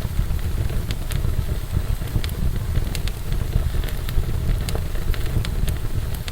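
Wood fire burning in a fireplace: a steady low roar of flames with scattered sharp crackles and pops, a few each second.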